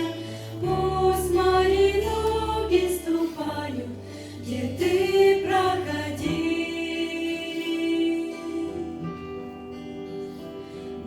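Voices singing a Russian-language Christian worship song over a steady low accompaniment. The sung phrases are loudest in the first half, and about halfway through they settle into a long held note that grows quieter.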